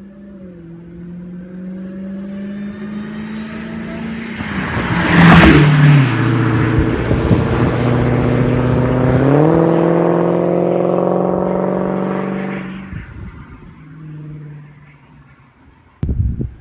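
A Dodge Challenger SRT Hellcat's supercharged 6.2-litre V8 running at speed, growing louder as it closes in and passes about five seconds in. Its pitch climbs around nine seconds in as it pulls hard, then the sound fades away. A sudden clatter comes near the end.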